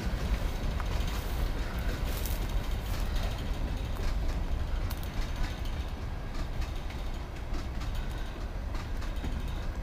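Passing train: a steady low rumble of rolling freight cars with scattered clicks, easing off slightly near the end.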